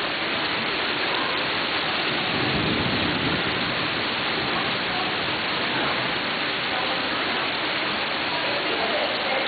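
Steady heavy rain pouring down as a hurricane approaches, with a low rumble about two and a half seconds in.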